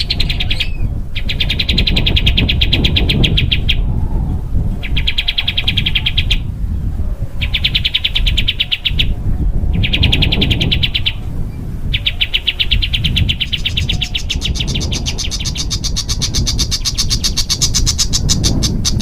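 A small songbird singing dense, rapid trills in five bursts of one to three seconds with short pauses between. The last trill runs about six seconds and rises higher partway through. A steady low rumble sits underneath.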